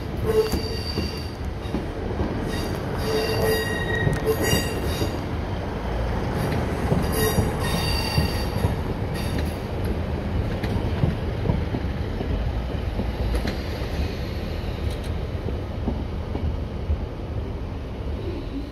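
Two-car diesel multiple unit passing at close range, its wheels squealing on and off in high tones through roughly the first half. Its engine and running rumble carry on steadily after the squeal stops.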